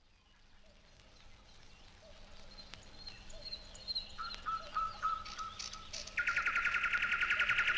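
Birdsong fading in: scattered chirps and whistles, then from about six seconds in a loud, fast trill of about a dozen notes a second.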